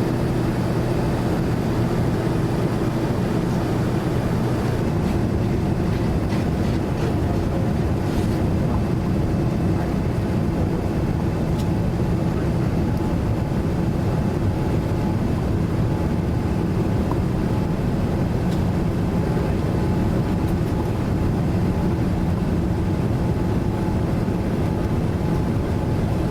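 Steady cabin noise of a Boeing 787-9 airliner on its descent: engine and airflow drone with a few steady low tones, unchanging throughout. A low hum among the tones drops out about five seconds in.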